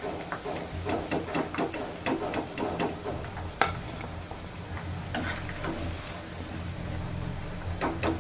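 Battered chicken pieces sizzling in hot frying oil while a metal spoon clinks and scrapes against the pan, lifting them out; one sharp clink about three and a half seconds in is the loudest.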